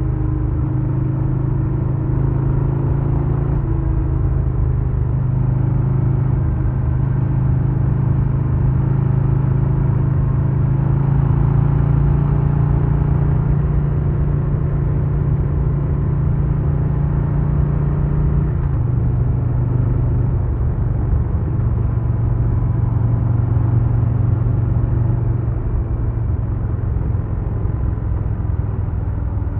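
2022 Harley-Davidson Low Rider S V-twin running under way at steady cruising speed. Its engine note climbs slowly, then drops suddenly to a lower pitch about two-thirds of the way through and holds there.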